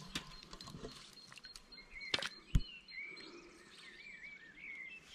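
Small birds chirping, short rise-and-fall calls repeated over and over, with two sharp knocks a little past two seconds in, the second one the loudest.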